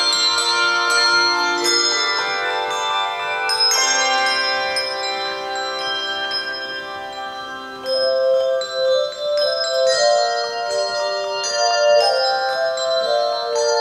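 Music played on tuned bells: ringing chords struck and left to sound for several seconds, then a louder passage with a moving melody from a little past halfway.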